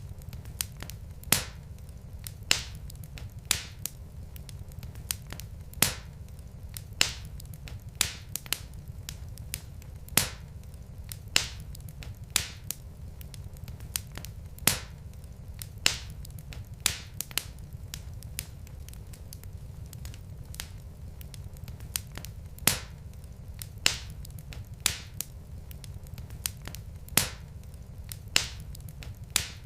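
Logs burning in a fireplace, crackling with sharp, irregular pops roughly once a second over a low steady rumble.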